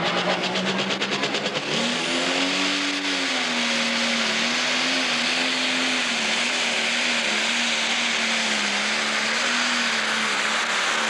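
Pro Stock John Deere pulling tractor's turbocharged diesel engine rising in pitch as it builds boost. About two seconds in it goes to full power and runs loud and steady, the pitch wavering slightly, as it pulls the sled down the track.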